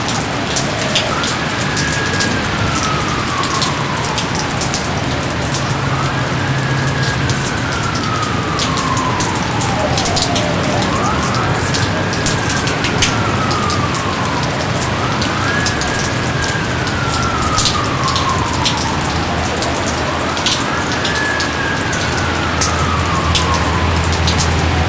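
Steady heavy rain with scattered drip clicks. Over it a whistling tone repeats about every four seconds, each time rising quickly and then sliding slowly down.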